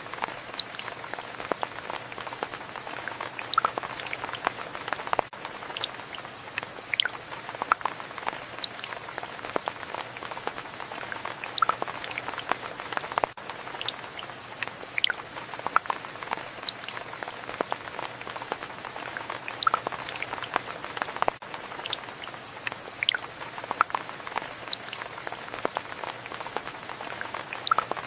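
Steady rain, a continuous hiss with many single drops dripping and tapping sharply close to the microphone.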